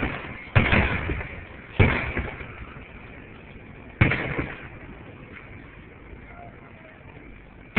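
Aerial fireworks shells bursting: three sharp booms, about half a second in, near two seconds and about four seconds in, each trailing off in a rumbling echo, then another boom right at the end.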